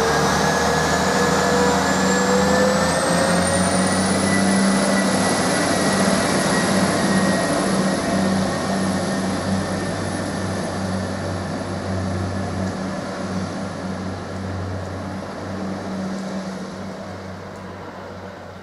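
Class 175 diesel multiple unit pulling away. Its engine hum carries a whine that rises in pitch over the first few seconds as the train gathers speed, then holds steady. The whole sound slowly fades as the train draws off into the distance.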